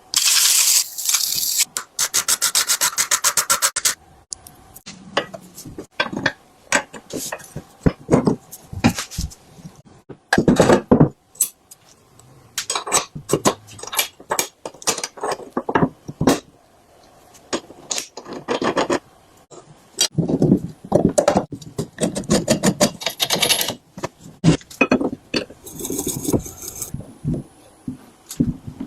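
Rubbing and scraping strokes from hand work on bike parts. In the first few seconds it is a fast, even rasping; after that come irregular strokes with scattered clicks and knocks.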